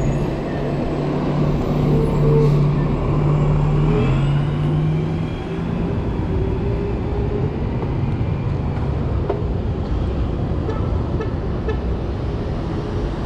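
Street traffic noise heard from a moving bike, with a steady low hum from a nearby vehicle for about the first five seconds.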